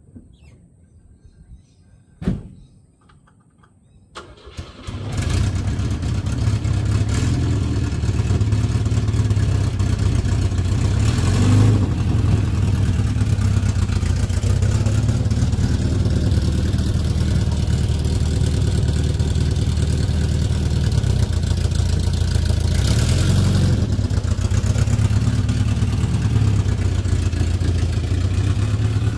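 A car door thumps shut about two seconds in. About five seconds in, the 1967 Volvo 122S's B18 four-cylinder engine cranks and starts, then runs steadily, running smoothly, with two brief rises in revs as the car is driven off and back.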